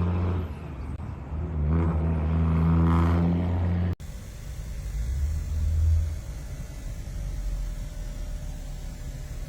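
Vehicle engine running with a loud low drone that dips briefly and swells again. About four seconds in it cuts off suddenly and is followed by a quieter, steady low road rumble.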